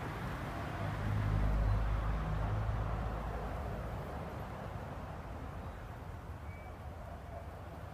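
A vehicle passing at a distance: a low engine hum swells a second or two in and then fades away, over a steady rushing background.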